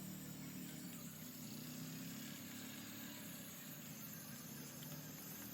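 Faint steady low hum, engine-like, over an even background hiss.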